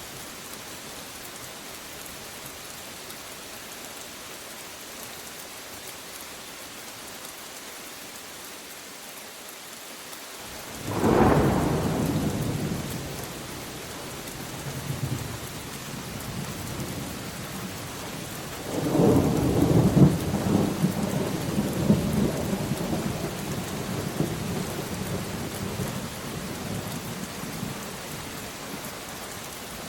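Steady rain with two peals of thunder. The first starts suddenly about a third of the way in and fades within a couple of seconds. The second, longer rumble begins about two-thirds of the way in and dies away slowly.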